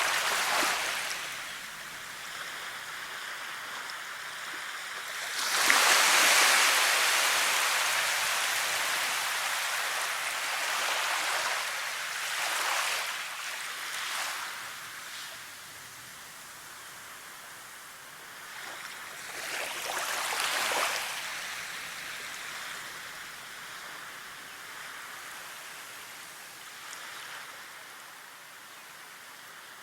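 Continuous rushing water with waves surging in and washing back about every seven seconds. The biggest wave comes about five seconds in.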